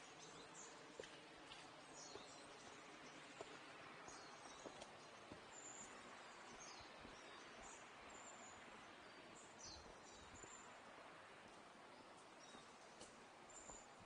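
Faint forest ambience, near silence: a soft, even hiss with scattered short, high bird chirps.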